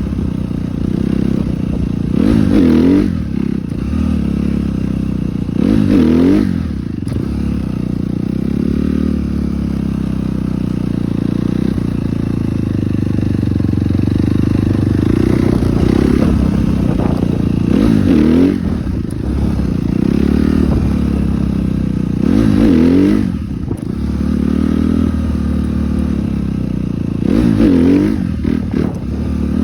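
Dirt bike engine running, with sharp throttle blips every few seconds where the revs climb quickly and fall back, as in popping the front wheel up for wheelies.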